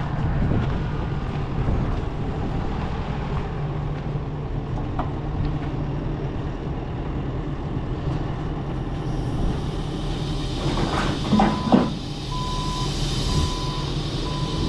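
A semi truck's engine and road noise run as a steady low rumble. Near the end comes a row of short, evenly spaced beeps of one pitch.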